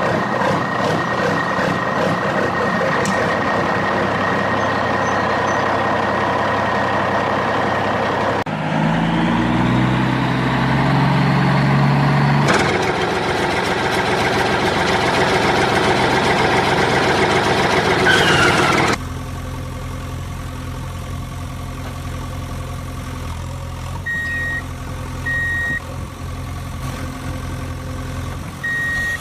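Vehicle engine running, in several segments that cut abruptly from one to the next. From about three quarters of the way in, a reversing beeper sounds in short, evenly repeated beeps.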